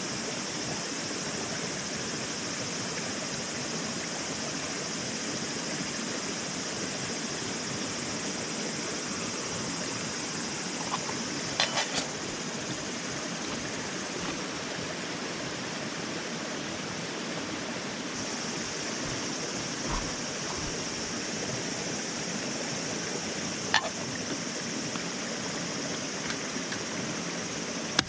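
Steady rushing noise like running water, with a high hiss over it, and a few short sharp clicks: a cluster about halfway through and a single one near the end.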